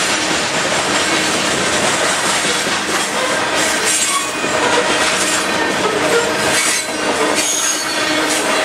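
Loaded covered hopper cars of a freight train rolling past close by: steady rumble of steel wheels on rail, with clacks as wheel sets cross rail joints and a brief high wheel squeal near the end.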